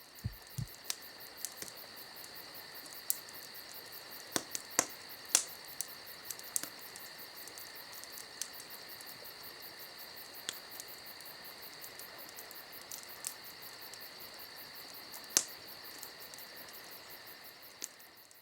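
Crickets chirping steadily, with sharp irregular crackles and pops of a campfire over them. Two soft low thumps come in the first second, and the whole fades out at the end.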